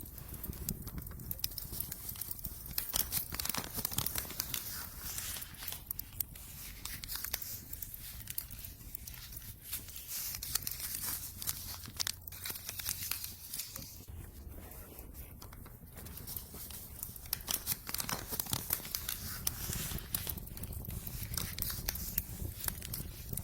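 Fire in a home fireplace crackling, with dense irregular snaps and pops over a low rumble.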